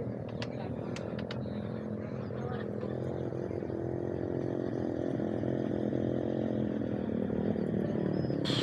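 An engine running steadily, its pitch slowly rising through the middle, with a few sharp clicks in the first second or so.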